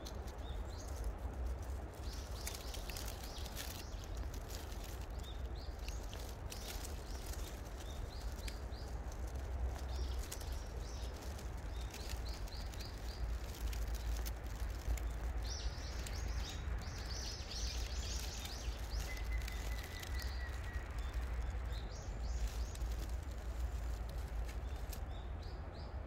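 Small birds chirping in short repeated series of high notes, over a steady low rumble and hiss of outdoor background noise.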